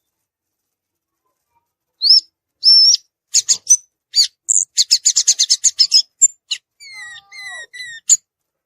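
Violaceous euphonia singing: after about two seconds of silence, a few clear high whistled notes, then a fast run of sharp chattering notes, ending with several drawn-out falling notes.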